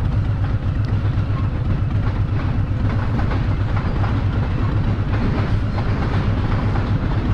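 Harley-Davidson V-twin motorcycle engine idling through loud pipes, a steady low, pulsing beat with no revving.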